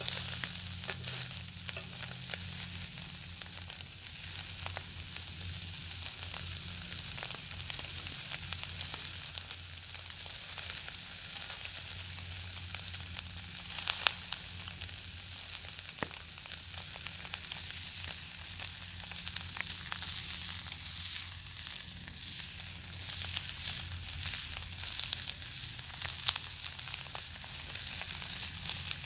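Bacon frying in a pan over an open fire: a continuous high sizzle with many small, irregular pops and crackles, one pop louder than the rest about halfway through.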